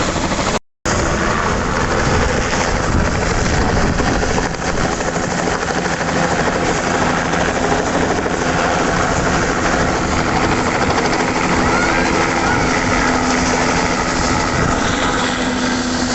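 Helicopter running close by: a loud, steady rotor chop with engine noise. A steady low hum comes in about halfway through. The sound cuts out for a split second near the start.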